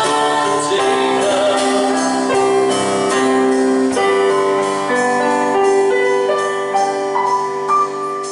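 Worship music: a keyboard plays long held chords over a steady light beat.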